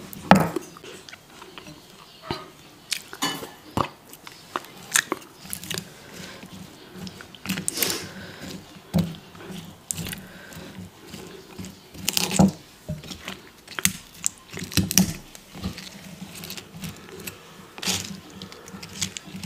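Close-miked eating sounds: chewing and crunching food, with irregular sharp crunches and clicks.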